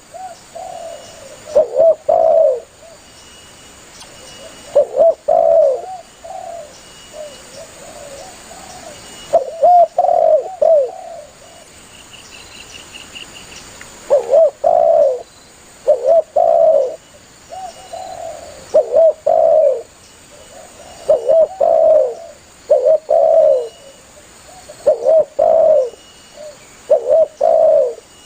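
Spotted dove (tekukur) cooing: repeated phrases of two or three low, gliding coo notes, spaced out with gaps of a few seconds in the first half, then coming every second or two.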